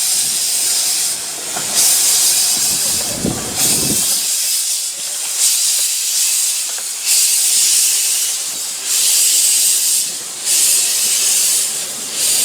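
A 15-inch-gauge steam locomotive hissing steam, in surges of a second or two with short dips between.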